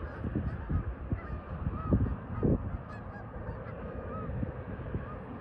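Geese honking: short, arched calls repeating about once a second, over a low rumble of wind on the microphone.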